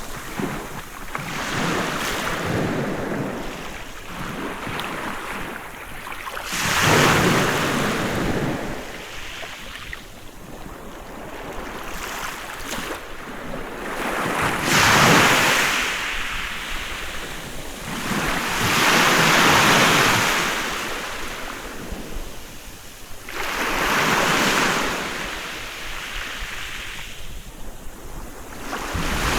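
Sea waves breaking on a beach, each wash of surf swelling and fading away every few seconds.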